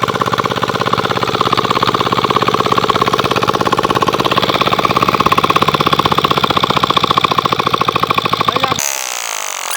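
20 HP Lister-type diesel engine of a water pump set running steadily, with an even, rapid pulsing beat. A little before the end the engine sound cuts off abruptly, leaving a thinner, higher sound.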